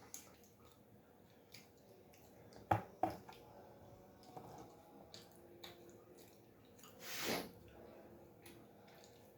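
Close-miked eating of cheesy pizza: soft wet chewing and mouth clicks, with two sharp smacks about three seconds in and a short breathy rush about seven seconds in.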